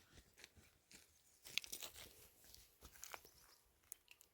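Faint, scattered crunches and clicks, bunched together about a second and a half to two seconds in, with a few more later.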